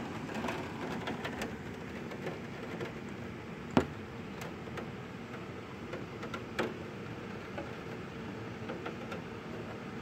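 Steady noise of heavy storm rain and wind over the city, broken by scattered sharp clicks. The loudest click comes about four seconds in and another a little before seven seconds.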